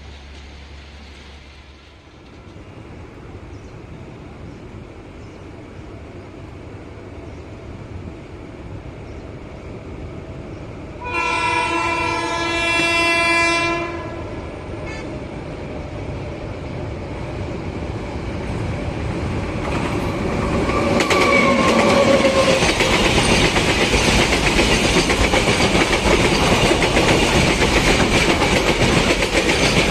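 Train approaching and passing: a low rumble builds, the locomotive gives one steady horn blast of about three seconds near the middle, then the wheels' clickety-clack and rumble grow loud as the train passes close by.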